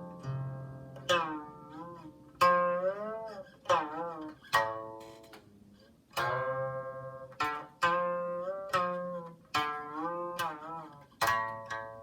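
Solo Chinese zither played by plucking: single notes and short groups ring out and fade, many of them bent up and down in pitch after the pluck, with a few quiet gaps between phrases.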